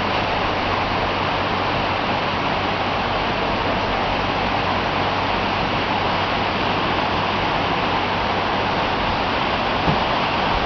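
Heavy thunderstorm rain pouring down: a steady, even hiss.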